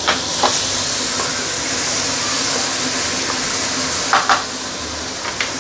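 Freshly added chili paste sizzling steadily in hot oil in a stainless steel wok while a wooden spatula stirs it. The spatula knocks against the wok a few times, twice in quick succession about four seconds in.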